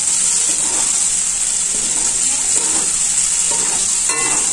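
Boiled potato pieces and spice paste sizzling steadily in hot mustard oil in a kadai, stirred and turned with a spatula.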